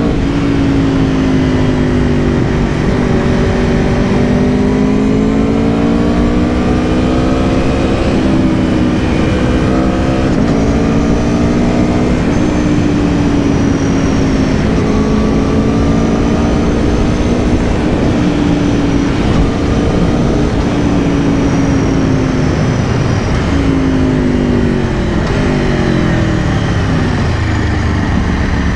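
2022 Aprilia Tuono V4 Factory's V4 engine pulling on the road, its pitch climbing and falling with the throttle through several gear changes. Near the end it drops steeply as the bike slows down.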